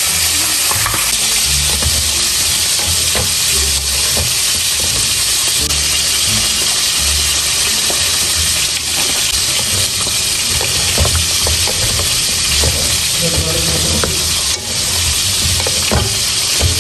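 Chicken sizzling and frying in an aluminium wok with soy sauce and vinegar, a steady hiss. Two wooden spatulas stir and turn the pieces, scraping and knocking against the pan now and then.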